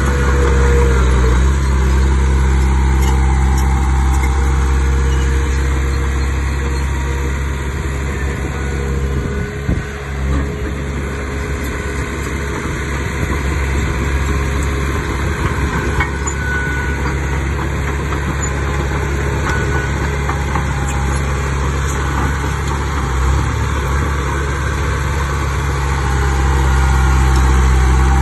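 Heavy diesel engine of earthmoving machinery running steadily, with a deep, even engine note; a little louder near the start and the end.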